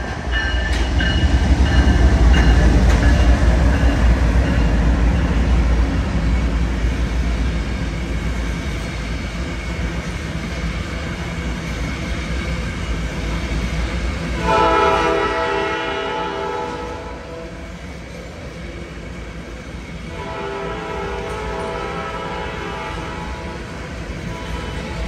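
Freight train's diesel locomotives passing with a heavy low rumble, followed by loaded tank cars rolling steadily by on the rails. A multi-tone train horn sounds for a couple of seconds about fifteen seconds in, and again from about twenty seconds on.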